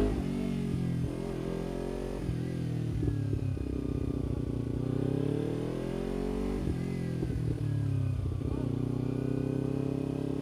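Kawasaki Ninja 300's parallel-twin engine under way, its pitch climbing as the bike pulls and falling away at gear changes, then holding steady near the end.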